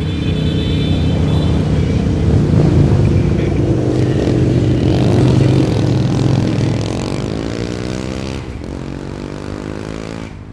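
Motorcycle engines running steadily. They are loudest about three seconds in, then the engine pitch slides down and falls away near the end as the bikes go past or slow down.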